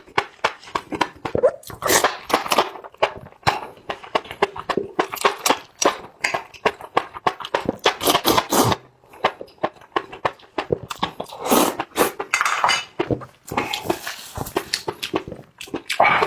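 Close-miked eating sounds: a person chewing and smacking food, a quick run of wet mouth clicks with louder noisy bursts in between.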